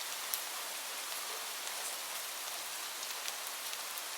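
Steady rain falling, an even hiss with scattered drop ticks, used as a white-noise background.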